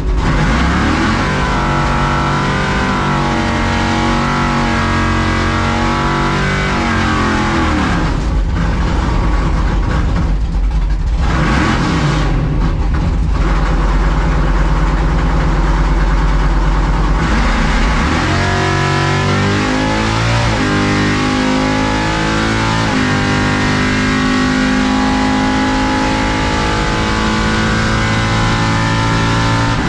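Chevrolet C10 drag truck's engine revving and running hard on a drag strip pass, its pitch climbing and falling several times.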